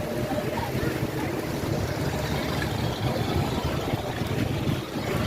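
Steady rush of churning water with a low rumble around a circular river-rapids raft.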